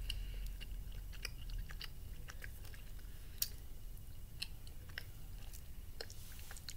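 A person chewing a caramel brownie Cow Tales, a chewy caramel candy log: faint, irregular mouth clicks and smacks, with one sharper click about halfway through.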